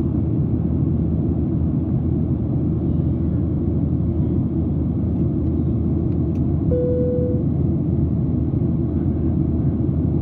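Steady roar of an airliner cabin in flight, the jet engines and airflow making an even low rumble. About two-thirds of the way through there is a short click, then a brief steady tone.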